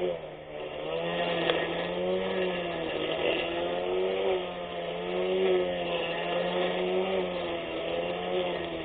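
Handheld 24V brushless electric grass cutter's motor running under load, a steady whine whose pitch sags and recovers as the blade cuts through grass, with a dip just after the start.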